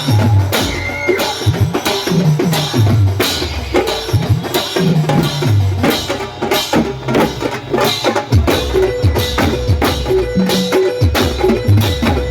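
Loud festival music from a DJ sound system: a heavy bass line sliding down in pitch every couple of seconds under dense, fast percussion.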